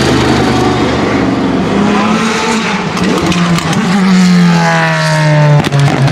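Sauber Mercedes Group C race car's turbocharged 5.0-litre V8 running loud, its pitch shifting up and down, then falling for the last couple of seconds. A few sharp cracks come just before the end.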